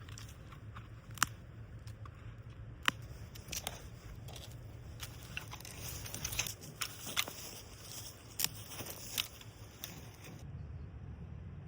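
Scattered sharp snaps and clicks of firewood, irregular and a few a second at most, over a faint steady low rumble.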